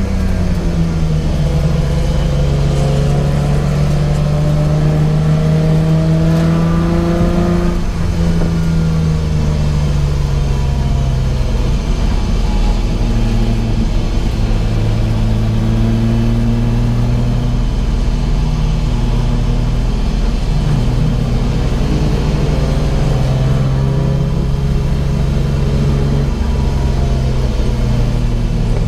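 Race car engine running hard on track, its pitch rising and falling with throttle and gear changes, with a sudden shift about eight seconds in.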